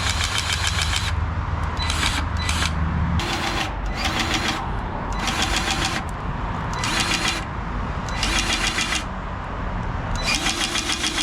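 Skid steer engine running, with repeated hissing bursts of hydraulic flow about a second long, every second or two, as the grapple is worked open and closed. The engine note drops about three seconds in.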